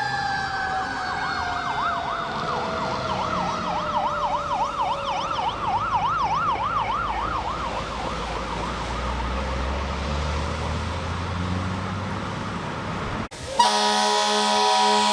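Fire truck sirens: a mechanical siren winding down in one long falling wail while an electronic siren warbles rapidly up and down, both fading out by about halfway through. Near the end, after a sudden break, a loud chord-like horn blast begins, like a fire truck's air horn.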